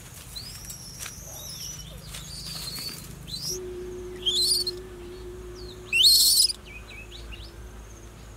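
Birds calling: short whistled notes that glide up and down, with two loud bursts of chirping about four and six seconds in.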